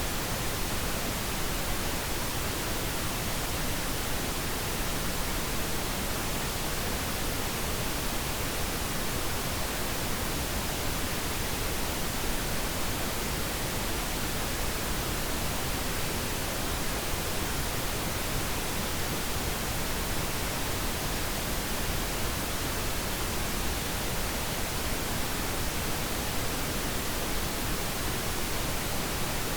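Steady pink noise, an even hiss with no changes.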